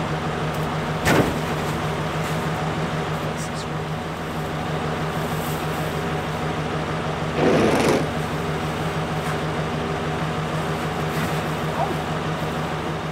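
Pickup truck engine idling steadily, with a sharp knock about a second in and a louder, brief rustling thud a little past the middle.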